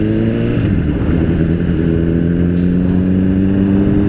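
Motorcycle engine accelerating, with a gear change about half a second in, then pulling up through the next gear with a slowly rising pitch.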